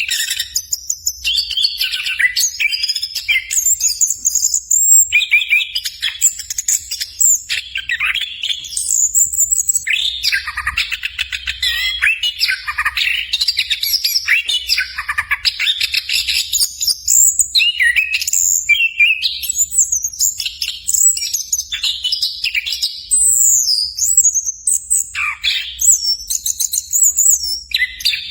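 Orange-headed thrush (anis kembang) singing a long, continuous song of quick, varied phrases of high notes and fast runs, with hardly a pause.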